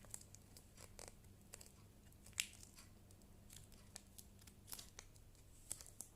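Origami paper being folded and creased by hand: faint, scattered crackles and rustles, with one sharper crackle about two and a half seconds in.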